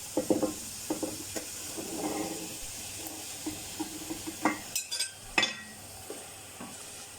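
Onion-and-spice masala sizzling in a cooking pot as raw chicken pieces go in, with a utensil scraping and knocking against the pot several times, the sharpest knocks about halfway through.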